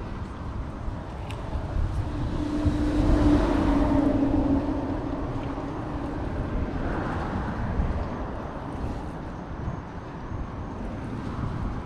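A road vehicle passing by, swelling up about two seconds in with a steady hum and hiss and fading away again, over a constant low wind rumble.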